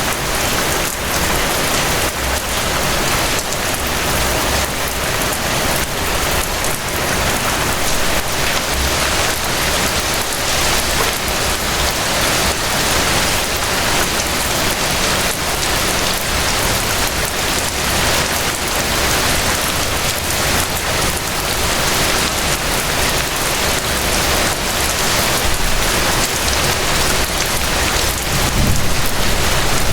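Steady rain falling, a dense hiss with many separate drop impacts pattering through it.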